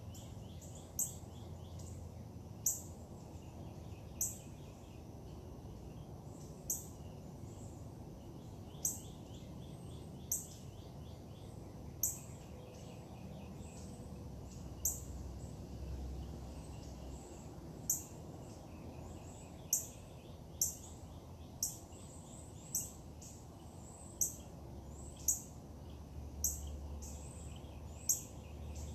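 A bird repeatedly giving short, sharp, high-pitched chip calls, roughly one every second or two, with fainter birdsong in the background over a steady low rumble.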